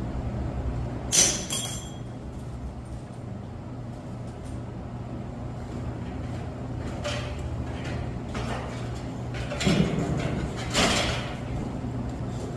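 Steady low hum from the boiler-room equipment, with handling noises: a sharp clack about a second in, then a few knocks and scrapes near the end.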